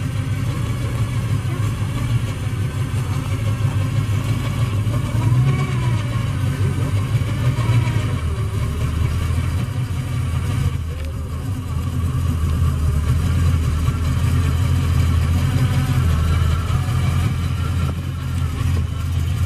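Hot rod engine running at idle with a deep rumble, then moving off slowly.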